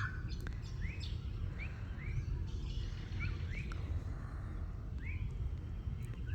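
A bird giving a series of short rising chirps, irregularly spaced, over a steady low outdoor rumble.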